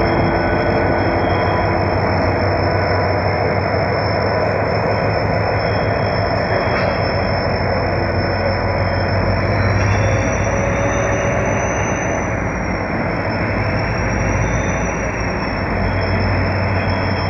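Diesel locomotive FCCA 705 shunting a train of empty sulphuric acid tank wagons: a loud, steady rumble of engine and rolling wagons, with a thin high squeal that climbs a little about halfway through and wavers before settling.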